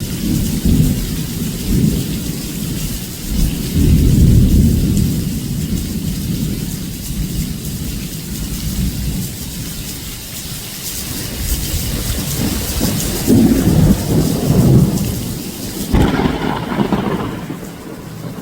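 Heavy rain hissing steadily with rolling thunder rumbling several times; the rain's hiss falls away suddenly near the end.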